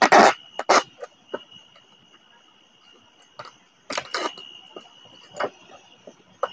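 A few sharp knocks and rustles from handling plastic containers and plates, loudest at the start, once under a second in and again around four seconds in. Under them, insects keep up a steady high trill.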